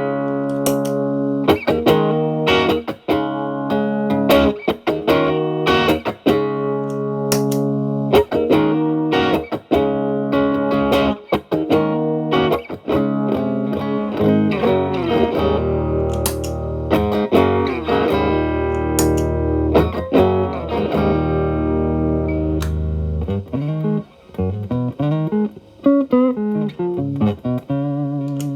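Electric Telecaster guitar through an E.W.S. Brute Drive distortion pedal set at zero gain, into a Marshall Valvestate amp's clean channel. It plays lightly driven strummed chords and riffs, with the pedal's boost switched on about seven seconds in, and some longer held low chords in the middle.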